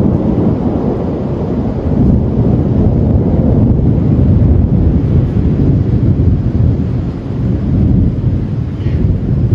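Rolling thunder: a long, loud, low rumble that eases a little and swells again around two seconds in and near the end.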